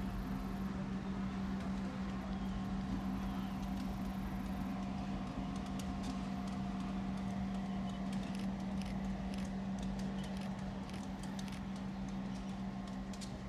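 Diesel locomotive running steadily: the 16-cylinder EMD 567 engine of the ex-Duluth, Missabe & Iron Range SD-M, rebuilt from an SD9, gives a constant low hum. Scattered small clicks join in from about the middle on.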